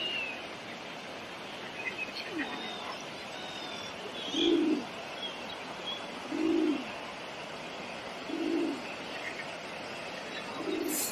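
A bird's low, soft cooing note, repeated four times about two seconds apart, with faint chirps of small birds between.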